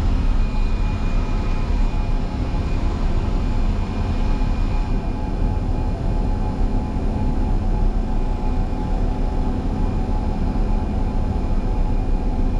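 Motor grader's diesel engine running steadily, a loud, even drone with a faint high whine over it, heard from inside the cab.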